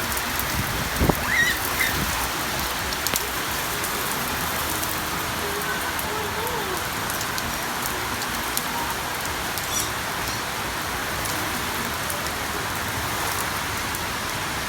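Heavy rain from a nor'wester storm pouring down steadily, with a few knocks about a second in.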